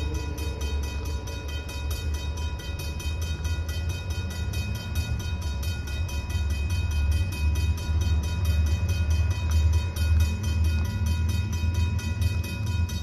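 Intermodal freight train rolling past with a continuous low rumble that swells and eases, the loudest sound throughout. Over it, the crossing's mechanical bell rings steadily with a fast run of strikes.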